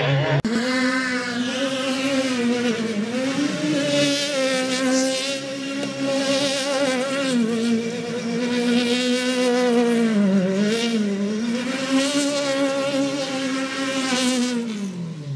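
Rally car engine held at high revs on a steady note, its pitch dipping briefly about three seconds in and twice around ten to eleven seconds, then falling away at the end.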